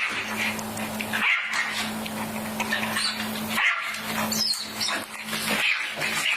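Puppy barking and yipping, with a steady low hum behind it that drops out briefly about three times.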